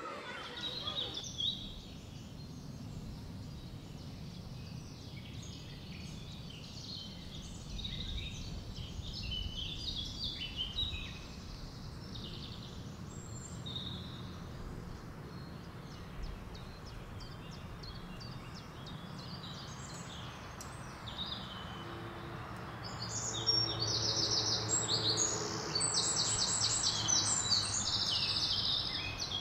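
Birds chirping and twittering over a steady low background rumble. About three quarters of the way in, a louder call comes in, rapid chirps repeated in a fast trill.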